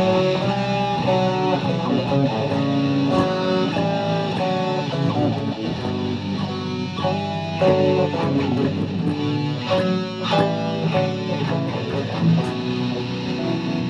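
High school string orchestra playing a piece, with a steady run of changing notes.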